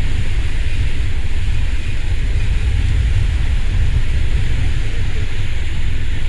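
Strong wind buffeting the microphone: a loud, steady low rumble with a hiss over it.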